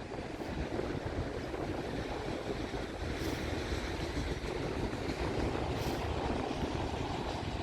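Long Norfolk Southern freight train of auto racks rolling past at close range: a steady rumble of wheels on rail, with faint brief hisses every few seconds.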